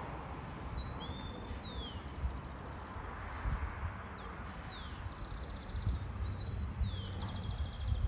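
Birds calling: several short, sharp whistles that fall in pitch, and three buzzy rattling trills lasting about a second each. Low wind rumble buffets the microphone underneath.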